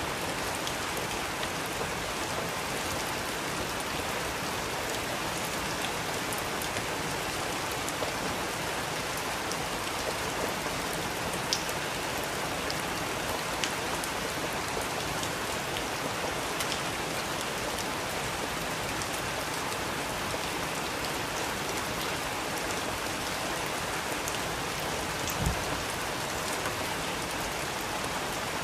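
Steady rain falling on a surface, an even hiss with scattered individual drops ticking through it; one heavier drop stands out near the end.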